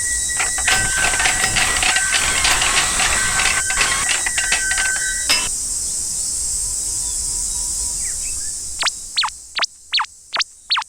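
Cartoon sound effects: a loud hiss with clattering and two steady alternating tones, which cut off sharply about five and a half seconds in. The hiss fades away, and near the end come several quick, sharply sliding whistle-like tones.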